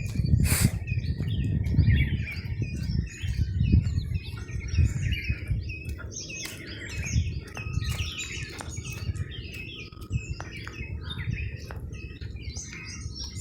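Many small birds chirping and twittering in rapid, overlapping short calls, with a low uneven rumble underneath and a sharp click about half a second in.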